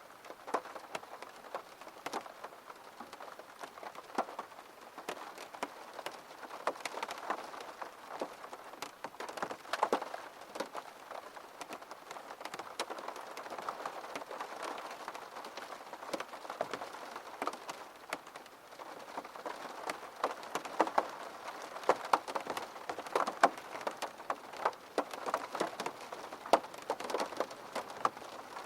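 Steady gentle rain falling on a surface, with many distinct drops and drips ticking out of a soft continuous patter.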